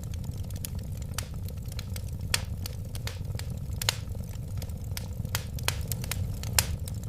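Wood fire crackling: a steady low rumble of flames with irregular sharp pops and snaps, several a second, a few of them louder.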